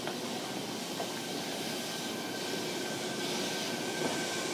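Interior running sound of a JR Kyushu 305 series electric train, heard inside motor car MoHa 305-5: steady rolling noise from the wheels and track with a faint steady hum, slowly growing a little louder.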